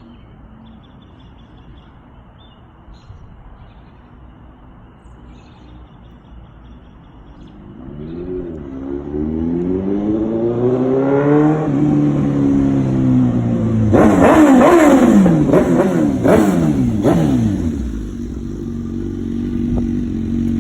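Suzuki GSX-R1000 sport bike's inline-four running through an aftermarket M4 exhaust. It idles quietly at first. About eight seconds in it is revved up in one slow rise and fall. Then it gets a run of quick throttle blips and settles back to a steady idle near the end.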